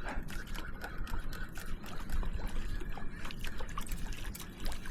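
Water splashing and trickling, with many small irregular splashes and ticks over a low steady rumble.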